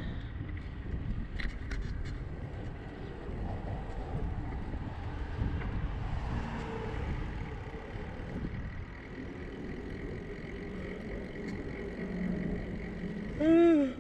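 Steady low rumble of wind and road noise while riding a bicycle. Near the end comes one short, loud call that rises and falls in pitch.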